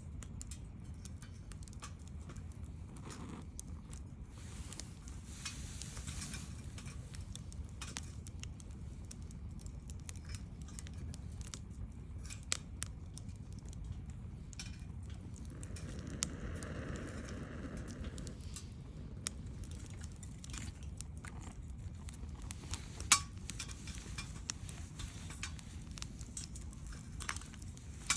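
Wood fire crackling, with scattered sharp pops over a low rumble of burning. One pop late on is much louder than the rest, and a soft hiss rises for a couple of seconds past the middle.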